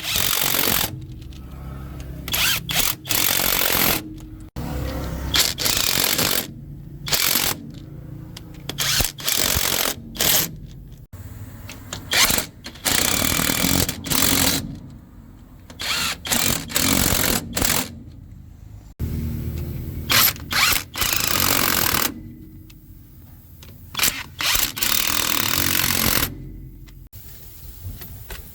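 A power tool run in many short bursts, starting and stopping every second or two.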